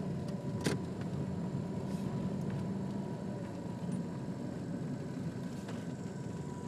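Car engine and road noise heard from inside the cabin while driving, a steady rumble, with one sharp click less than a second in.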